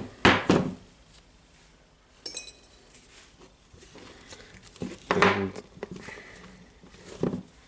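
Small metal parts clinking while the hammer drill is being taken apart: a few sharp clicks at the start and a short metallic ring about two seconds in, then light handling noise.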